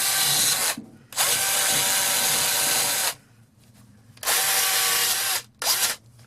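Electric drill spinning a small polishing wheel against a vintage auger bit, a steady motor whine started and stopped in four runs, the last one brief.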